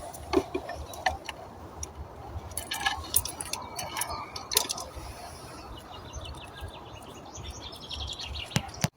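Birds chirping, with scattered sharp clicks and taps and a run of quick ticks late on, over a steady low rumble.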